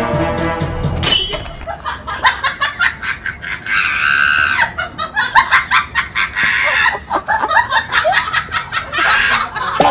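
Music cuts off about a second in with a sudden sharp hit. A comedy sound effect of rapid, choppy cackling with shrill squawks follows.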